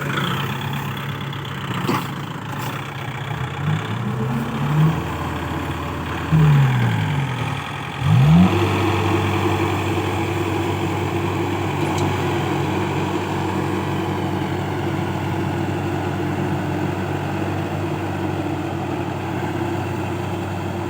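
Kubota diesel engine revving up and down a few times, then climbing about eight seconds in to a louder, steady high-rev run under load as the machine works to pull free of deep mud.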